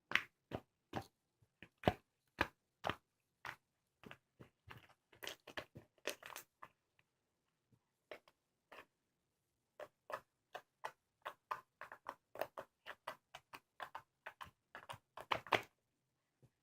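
Slime being squeezed and poked by hand, giving a run of short, irregular clicks and pops that come thicker in the middle and toward the end.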